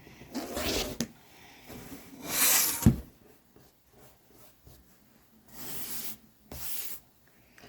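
Fabric and cutting tools being handled on a quilting cutting mat. There are four short scraping swishes, the loudest about two and a half seconds in, and one dull thump just after it.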